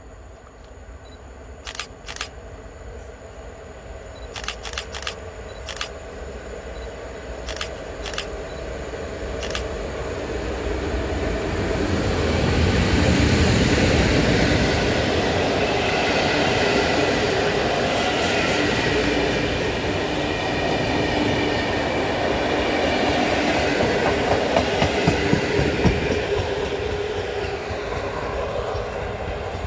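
A locomotive-hauled passenger train approaches and passes close by, growing steadily louder over the first dozen seconds as the locomotive nears. Then a steady rumble of passing coaches follows, with clattering wheels over the rail joints. A few sharp clicks from the rails come as it approaches.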